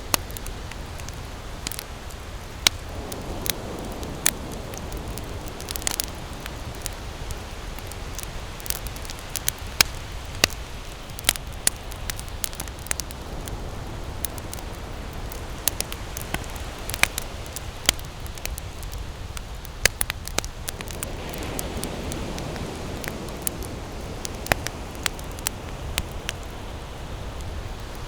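Wood campfire burning, with frequent sharp, irregular crackles and pops over a steady hiss of flame. A soft low rushing swell rises twice, a few seconds in and again past the twenty-second mark.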